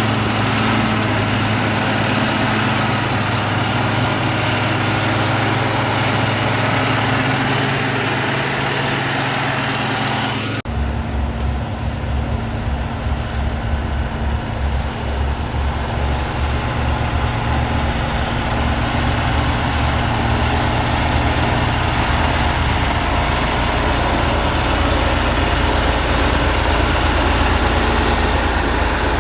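Motor grader's diesel engine running steadily. About eleven seconds in the sound changes abruptly to a deeper, pulsing engine note that carries on to the end.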